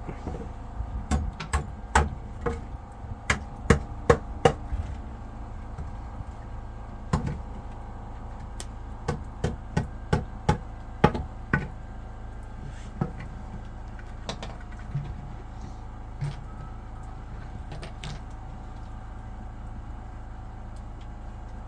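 A series of sharp, irregular knocks and bangs, a dozen or more in the first half and fewer later, over a steady low hum.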